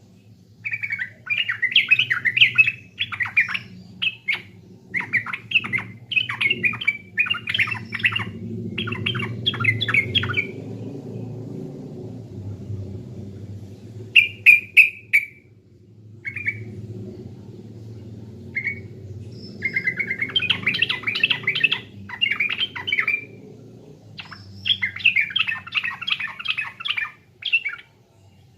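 Yellow-vented bulbul (trucukan) singing in runs of quick, bubbly chattering phrases broken by short pauses, with a low steady hum underneath.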